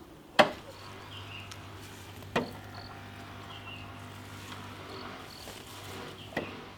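Three sharp knocks, the first the loudest, about two and then four seconds apart, each with a short ringing tail, over faint repeated high chirps of insects.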